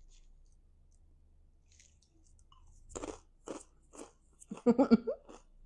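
Crunchy garlic shrimp chip being bitten and chewed: quiet at first, then a run of crisp crunches about half a second apart, starting about three seconds in.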